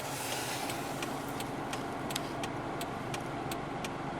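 Hazard-light flasher of a 1999 Toyota Celica ticking in an even rhythm, over the steady idle of its 1.8-litre four-cylinder engine.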